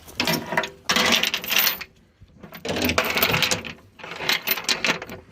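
Steel chain rattling and clinking as it is handled, in four bursts of about a second each with short pauses between.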